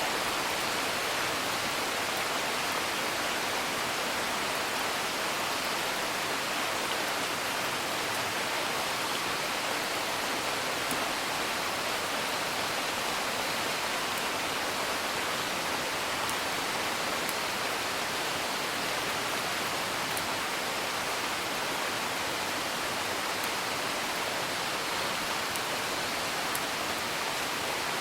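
Steady rain falling, with a few faint, sharp pops of a crackling wood fire scattered through it.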